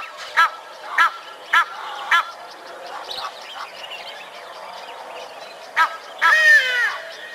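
A bird honking in a series of short calls, a little under two a second, stopping about two seconds in; near the end come two more calls, the last one longer and falling in pitch.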